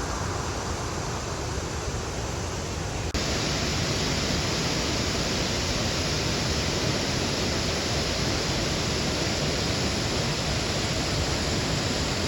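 Steady rushing of a waterfall, with an abrupt change about three seconds in to a brighter, hissier rush.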